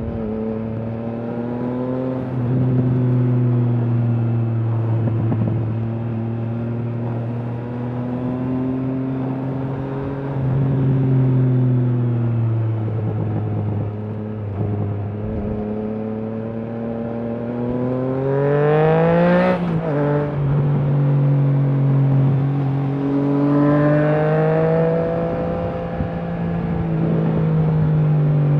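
Triumph Trident 660's inline three-cylinder engine through a Leo Vince aftermarket exhaust, running under varying throttle while riding. About 18 seconds in it revs up hard, the pitch climbing steeply, then drops abruptly as it shifts up, and it picks up again a few seconds later.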